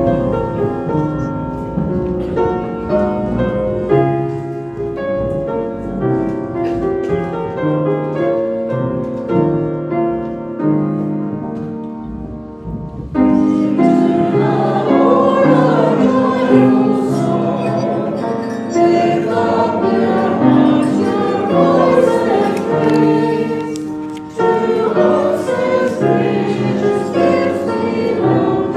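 A keyboard plays a hymn's introduction in steady notes, then about halfway in a congregation joins, singing the hymn with the accompaniment. The singing dips briefly near the end and then carries on.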